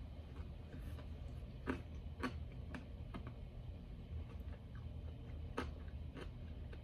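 A person chewing crispy, dry breaded chicken nuggets close to the microphone, with a few sharp, crunchy clicks scattered through the chewing.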